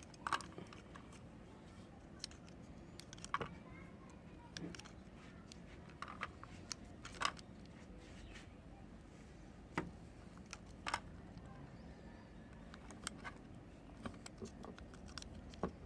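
Irregular sharp clicks and taps, one to three seconds apart, from bars of soap being handled.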